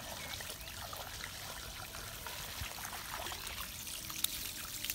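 Hose water running steadily and splattering into the cavity of a gutted gummy shark, rinsing out the last of the blood, with small irregular splashing ticks.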